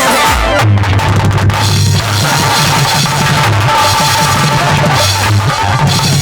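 Loud background music on a drum kit, with a steady pounding bass drum and snare.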